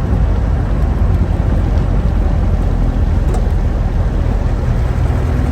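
Steady in-cabin running noise of an old ex-military Land Rover on the move, its 2.5 litre naturally aspirated diesel engine giving a loud, even low rumble.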